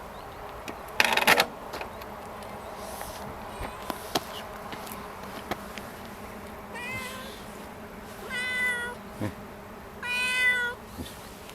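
A kitten meowing three times, high-pitched, the second and third calls louder and longer. About a second in there is a brief, loud scratchy burst.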